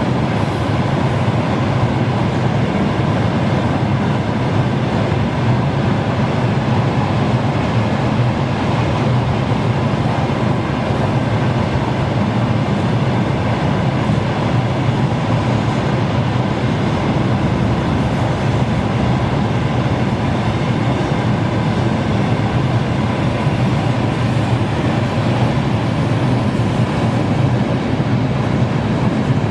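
Freight train behind a 2ES6 'Sinara' electric locomotive rolling past: an even, unbroken rumble of wheels on rail.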